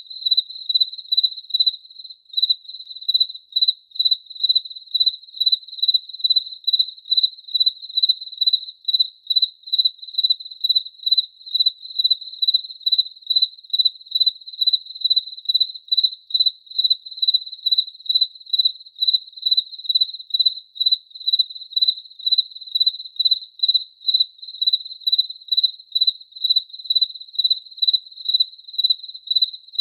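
A cricket chirping steadily: an even run of short, high-pitched chirps, about two to three a second.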